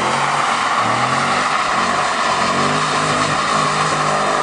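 HSV Clubsport R8's 5.7-litre LS1 V8 revving hard, its pitch climbing and dropping about once a second as the throttle is worked, over a steady squeal of the rear tyres spinning in a smoky slide.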